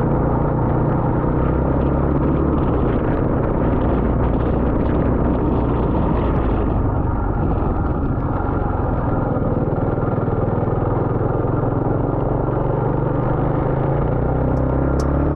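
A KTM single-cylinder enduro motorcycle running steadily on the road, engine drone with wind and road noise.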